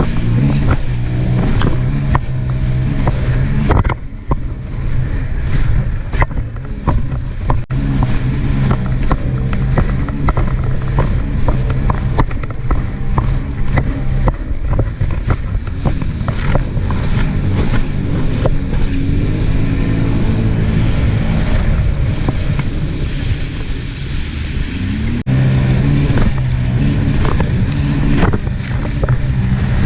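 A jet ski's engine running on the water, its pitch rising and falling as the throttle changes.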